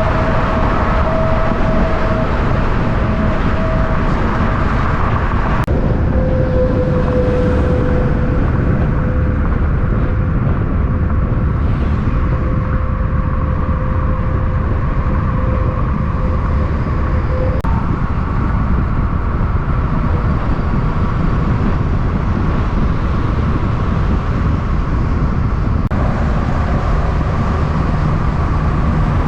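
Steady, loud road vehicle and engine noise with no distinct pass-bys, changing abruptly three times where clips are cut together.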